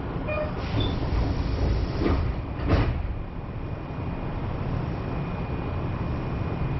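Subway train's sliding doors closing at a station stop: a few short chime tones, then two knocks about two and three seconds in as the doors shut, the second louder. After that, the steady hum of the standing train with a thin constant whine.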